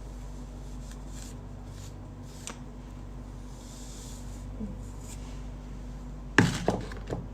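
Faint rustling of handled objects over a steady low hum, then one loud knock near the end followed quickly by two lighter knocks.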